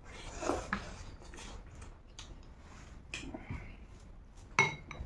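Close-miked mouth sounds of people eating rice with their hands: chewing and small smacking clicks. Near the end, one sharp ringing clink, a serving spoon striking the glass bowl.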